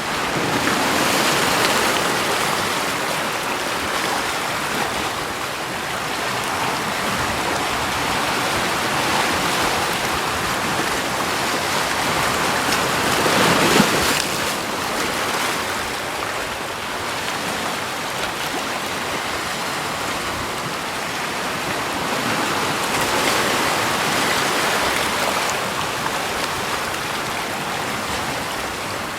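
Rushing water, a steady even wash that swells and eases, with its loudest surge about halfway through.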